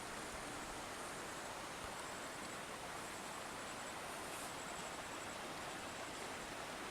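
Irrigation canal water flowing with a steady rushing sound, with a faint, broken high-pitched tone coming and going over it.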